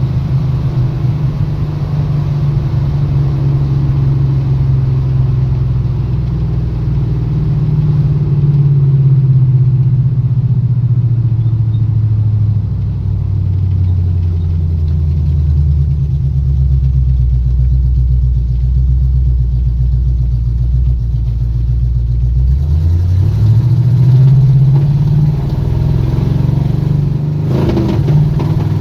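Squarebody Chevy drag truck's engine running under way, its pitch sinking slowly as the engine speed drops over about twenty seconds, then climbing quickly about 23 seconds in as it is given throttle again.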